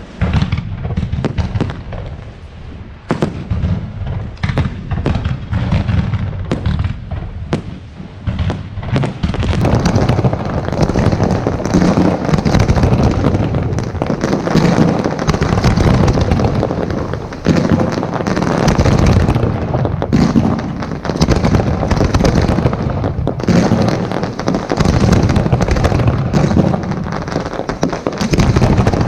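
Fireworks display: separate sharp bangs for the first several seconds, then from about nine seconds in a dense, continuous run of overlapping bangs and crackling.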